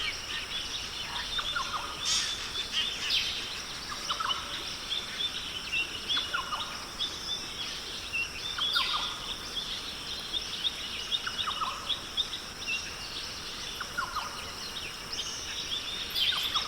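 Birds calling in a forest chorus: many overlapping chirps and trills, with a short call recurring about every two seconds, over a steady high hum.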